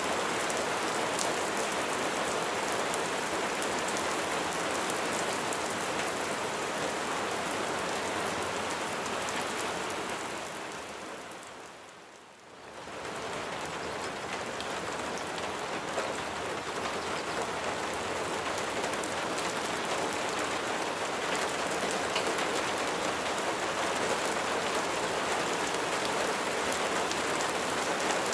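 Steady rain falling, a dense hiss with many small drop taps. About ten seconds in it fades down almost to quiet, then swells back up a couple of seconds later.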